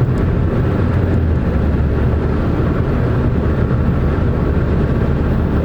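Loud, steady rumble of a moving vehicle, road and wind noise heavy in the low end, beginning abruptly.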